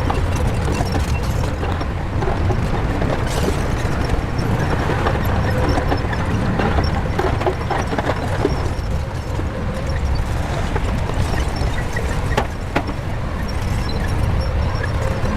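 Shantui crawler bulldozer running, a steady low diesel rumble with scattered sharp metallic clanks.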